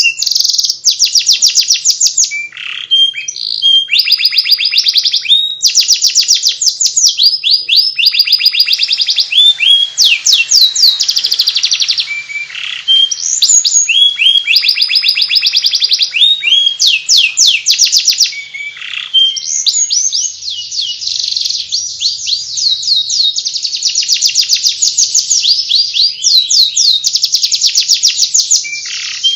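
Domestic canary singing nonstop in fast, high twittering trills: the chattering 'ngeriwik' song.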